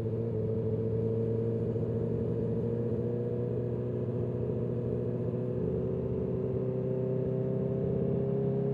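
Honda CB650R inline-four running through an Akrapovic titanium full exhaust with the dB killer removed, held at a steady part throttle, its note slowly rising a little.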